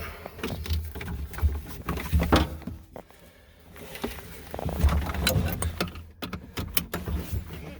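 Seat belt being pulled out and fumbled with in a skid steer cab: irregular clicks, knocks and rustling of belt webbing and buckle, with no engine running.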